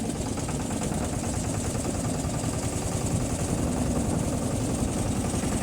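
Boat engine running steadily, a low drone with a fine rapid flutter.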